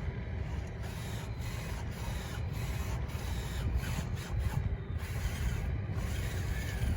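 Small electric drive motors and gears of an RC bulldozer whirring, over a steady low rumble of wind on the microphone.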